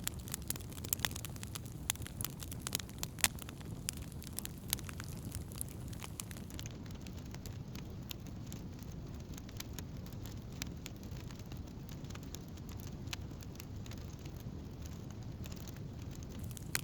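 Wood campfire burning, with irregular sharp crackles and pops over a steady low rumble of the flames. The crackles come thickest in the first few seconds and thin out afterwards.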